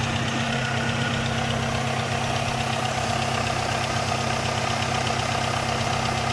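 Pontiac Sunfire's 2.2-litre pushrod four-cylinder engine idling steadily after a head gasket replacement. Its lifter-like ticking has been cured by a new ignition coil.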